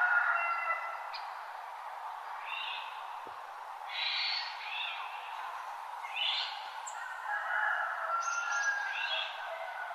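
Forest birds singing at dawn: short chirping phrases repeated about once a second, with longer drawn-out whistled notes at the start and again near the end, over a steady hiss of outdoor ambience.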